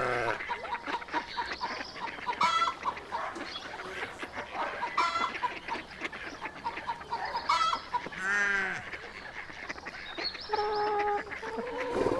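Short pitched animal calls recurring about every two and a half seconds, with a longer bending call near the middle.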